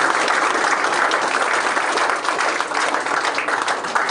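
Audience applauding: many people clapping together, thinning out toward the end.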